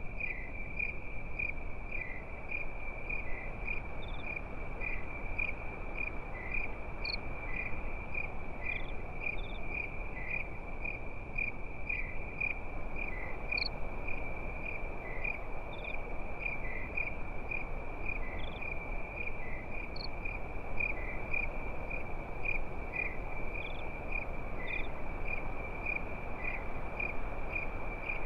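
Crickets chirping in a steady, rhythmic chorus at a high even pitch, with a few higher chirps now and then, over a low, even rushing noise.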